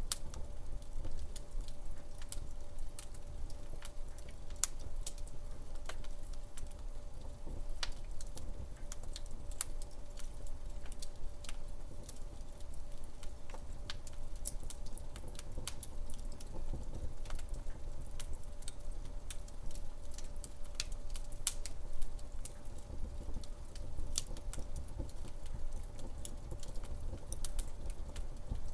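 Log fire crackling, with irregular sharp pops and snaps over a low steady rumble; one louder pop about 22 seconds in.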